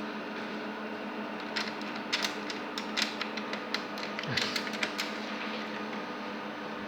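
An irregular run of light, sharp clicks and taps, about a dozen over three seconds, starting about a second and a half in, over a steady low hum.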